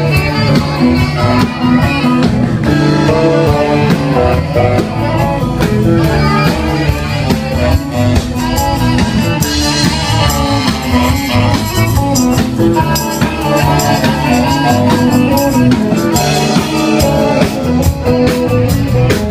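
Live rock band playing, guitar-led, with a steady beat.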